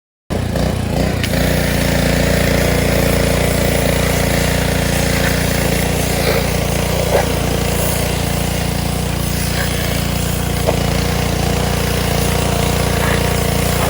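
Honda GCV160 single-cylinder engine on a Ryobi pressure washer running steadily at constant speed after its clogged carburetor pilot jet was cleaned; it cuts in suddenly just after the start.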